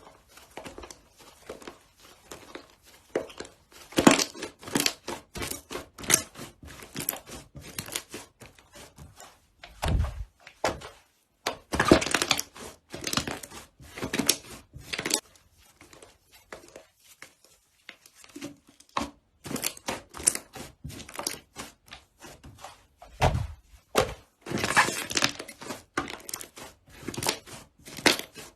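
Slime being squished and pressed by hand: a dense run of small crackles and pops in bursts, with a few low thumps.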